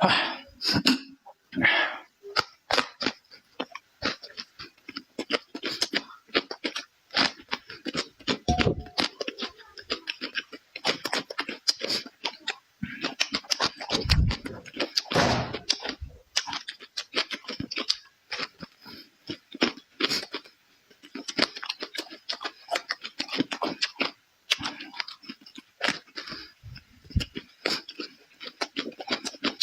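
Close-miked chewing and crunching of food: a fast, uneven stream of wet mouth clicks and crunches, with a few louder bites.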